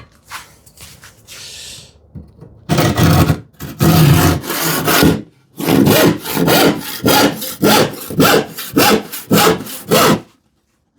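Rip-pattern handsaw cutting across the grain of a plywood sheet. It starts with a couple of long, slow strokes, then goes to quicker strokes at about two a second, and stops shortly before the end.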